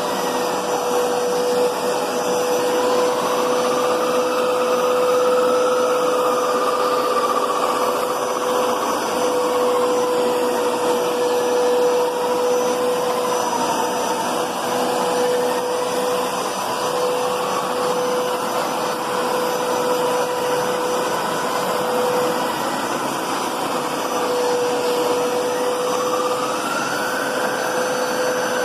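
Hoover Power Scrub Deluxe upright carpet cleaner running, a steady motor whine with a second, higher tone that slowly rises and falls.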